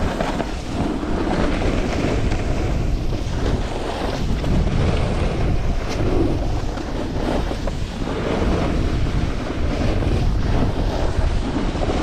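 Wind rushing over the microphone of a snowboarder riding downhill, a steady low rumble with gusty swells.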